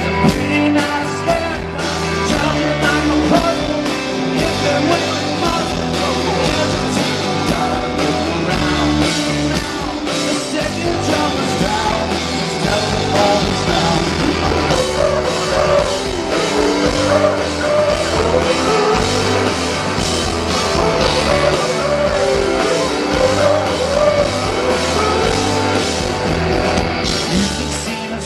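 Live rock band playing at full volume: drum kit, electric guitars and bass, with singing.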